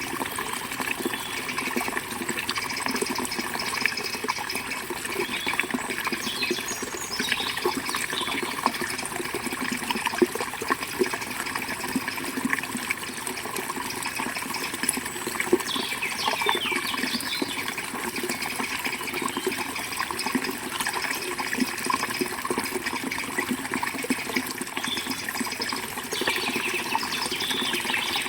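River water flowing steadily, with birds chirping now and then over it.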